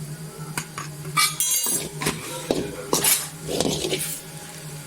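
A metal spoon scraping and clinking against a cooking pan while masala powder is stirred into the frying onion-tomato mixture, with a steady low hum underneath.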